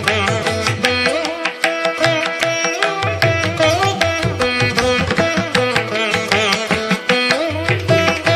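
Background music of Indian classical style: a plucked string instrument plays a melody over a steady drum beat, the beat dropping out briefly about two seconds in.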